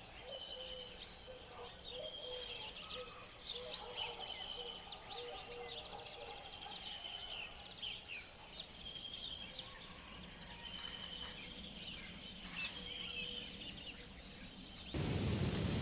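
Tropical forest ambience: a steady, fast-pulsing high insect trill with scattered bird chirps and whistles over it. Near the end it cuts abruptly to a louder, steady rushing noise.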